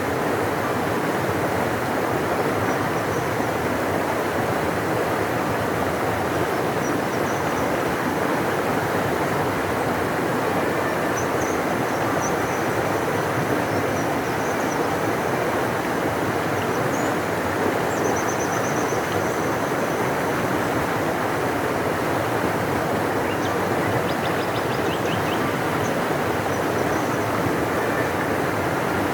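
Large river flowing: a steady, deep rush of water. Faint high bird chirps come through now and then.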